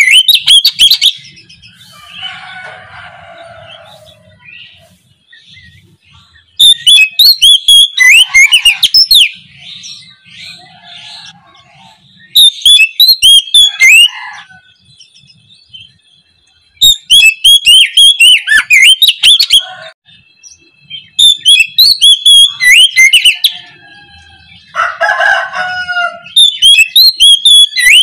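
Oriental magpie-robin (kacer) singing a loud, full song of rapid high notes in bursts of two to three seconds, repeated about every five seconds. Softer, lower sounds fill the gaps between phrases.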